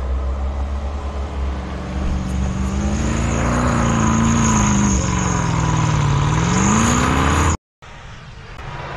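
4x4 SUV engine revving under load as it churns up a snowy slope with its wheels spinning. The pitch climbs, sags and climbs again. About seven and a half seconds in the sound cuts off abruptly, and a quieter, steady engine of another 4x4 follows.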